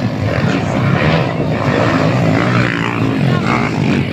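Motocross dirt bike engines running hard.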